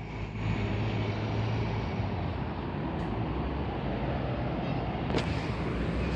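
A bus engine running close by: a steady low drone that gets louder about half a second in. There is a short sharp click about five seconds in.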